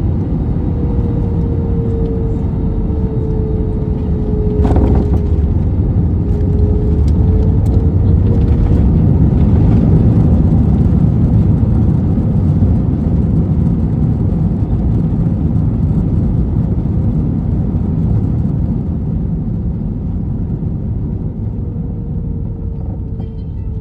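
Cabin noise of an Airbus A321-211 landing, heard from a window seat: a steady rush of air and engine noise, with a single thud about five seconds in as the main gear touches down. Then the CFM56 engines swell as reverse thrust builds and ease off as the jet slows on its rollout, with an engine tone that glides down and back up.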